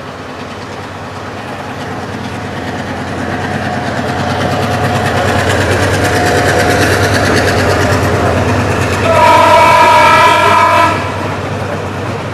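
Intercity express passenger train of red coaches passing at speed, its running noise growing louder over the first several seconds. Near the end the train sounds one horn blast of about two seconds.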